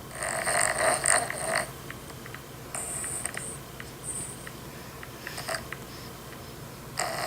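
Dog snoring in its sleep: a loud noisy breath about a second and a half long at the start, shorter and quieter ones around three, four and five seconds in, and another beginning near the end.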